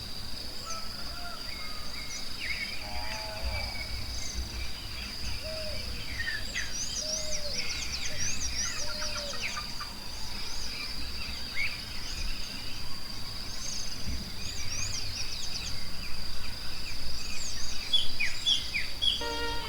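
Forest ambience of many birds chirping and calling, over a steady high-pitched insect drone. A few short, lower-pitched animal calls come in the first half.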